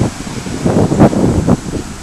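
Gusty thunderstorm wind buffeting the microphone in uneven low rumbling gusts, strongest about a second in and easing near the end.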